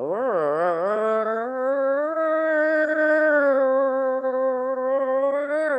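A voice humming: the pitch wavers up and down for about a second, then holds one long note almost to the end.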